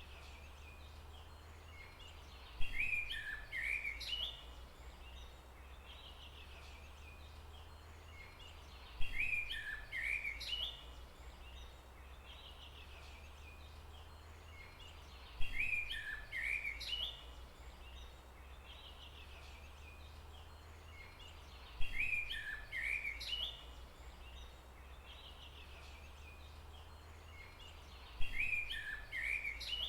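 A songbird singing one short phrase of quick chirps, the same phrase repeating at even intervals about every six seconds, five times in all, over a steady low rumble.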